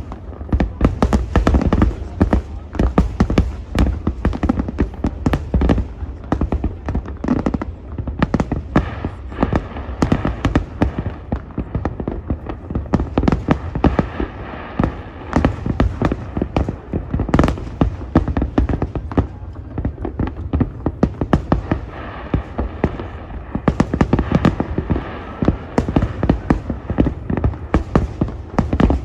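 Large aerial fireworks display in a continuous barrage: sharp bangs come several a second and overlap over a deep rumble.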